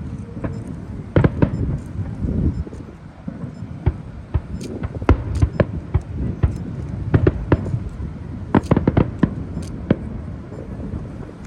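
Fireworks shells bursting overhead: an irregular string of sharp bangs, some coming in quick clusters, over a steady low rumble.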